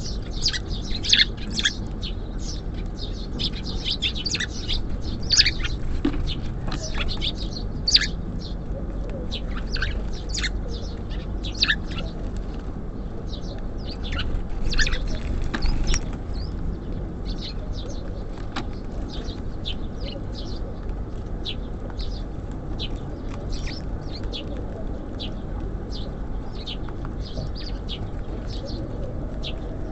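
Small songbirds chirping at a feeder: many short, high calls, busiest in the first half, over a steady low background hum.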